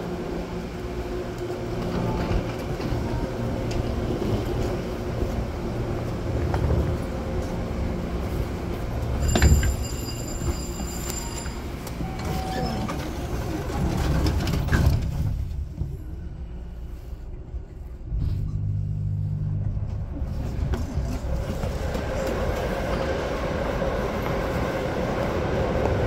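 Passenger train running on the rails: continuous wheel-and-track rumble with a few clicks, a brief louder burst with a thin high whine about nine seconds in, and a quieter dip about two-thirds of the way through.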